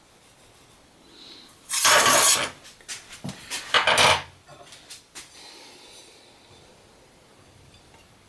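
Aluminum sheet metal and hand tools being handled on a workbench: two loud clattering, scraping bursts of metal about two seconds apart, with a few lighter clinks between and after.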